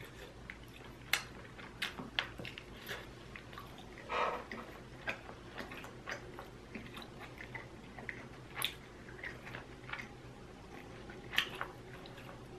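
A person chewing chicken wings, with scattered sharp mouth clicks and smacks spread unevenly through the stretch. A slightly longer, fuller smack comes about four seconds in.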